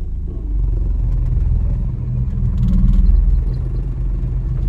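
Car engine running as the car moves in reverse under a learner driver, a steady low rumble that swells about three seconds in.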